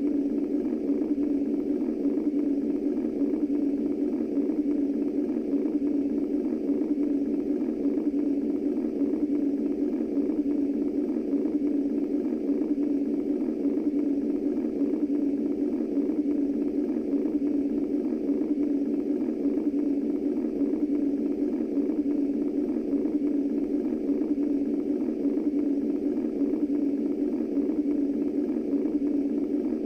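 Womb-style white noise from a sound machine: a steady, low, even whoosh with no heartbeat and no breaks.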